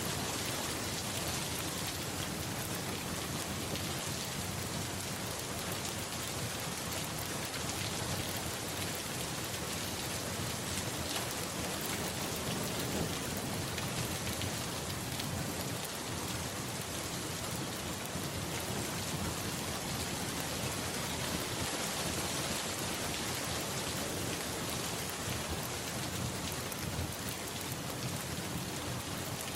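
Steady, even rain falling hard, with low thunder rumbling under it.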